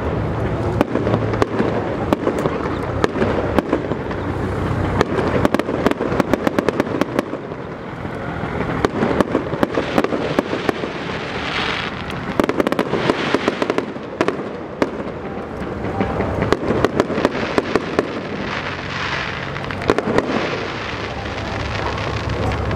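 Fireworks display: many sharp bangs and runs of rapid crackling from aerial shells bursting, coming in clusters every few seconds over a steady low background hum.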